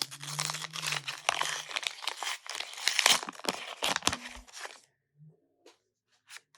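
A McDonald's Pokémon card pack wrapper being torn open and crinkled: a dense crackle of many small clicks that stops about five seconds in, followed by a few faint ticks.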